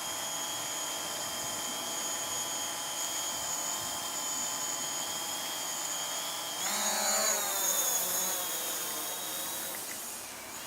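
DJI Mavic Pro quadcopter on low-noise propellers flying with a steady high whine of motors and props. About two-thirds of the way through, the pitch shifts and the sound gets louder as the motors speed up, then it settles back.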